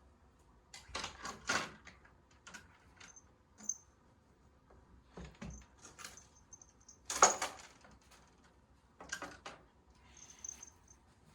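Cat play with a toy: scattered rustles and clatters with small jingly high notes, the loudest clatter about seven seconds in.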